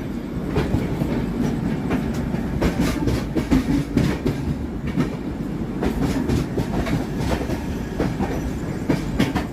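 Humsafar Express passenger train running at speed: a steady rumble with irregular clicks and clatter from the wheels crossing rail joints.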